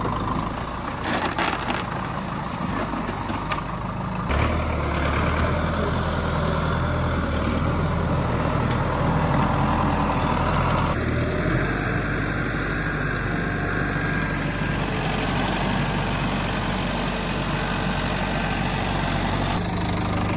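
A vehicle engine running steadily, with a deeper, stronger hum coming in about four seconds in and the sound shifting again about halfway through.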